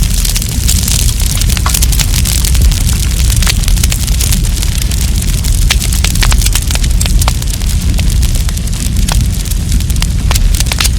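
Wood campfire crackling, with many sharp, irregular pops and snaps over a steady low rumble.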